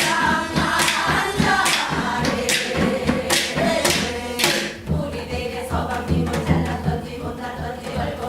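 Live Korean Gyeonggi-Seodo folk song: sung voice with accompaniment, punctuated by sharp drum strokes through the first half before the music carries on more softly without them.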